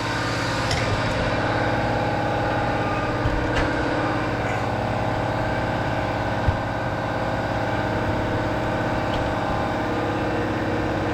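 Air compressor running steadily in a workshop, a constant mechanical drone with a fixed pitch. A few light knocks come about three and a half and six and a half seconds in.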